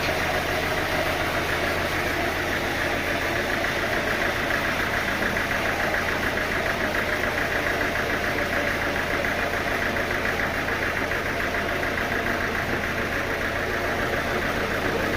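Engine running steadily at an even speed, with a fast, regular beat and no change in pitch.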